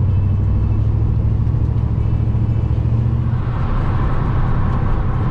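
Chevy C10 square body pickup cruising on a highway, heard from inside the cab as a steady, deep engine and road drone. About three seconds in, the deep drone eases and a higher road hiss rises.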